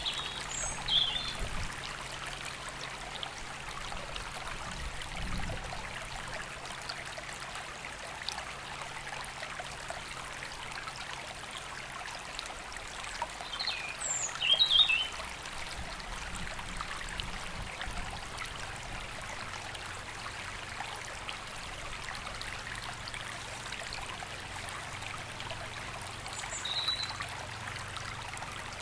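River flowing steadily, a continuous rush of water, with short high bird calls from the trees above: a few right at the start, a louder cluster about halfway through, and one more near the end.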